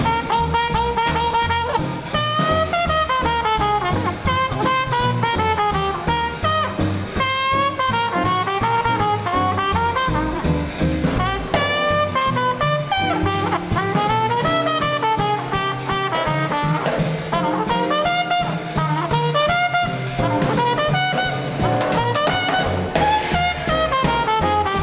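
Small-group swing band playing live: trumpet and saxophone lines over a walking bass and steady drums.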